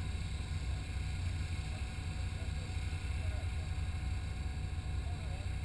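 2004 Nissan 350Z's VQ35DE V6 idling steadily with the car standing still, a low even rumble.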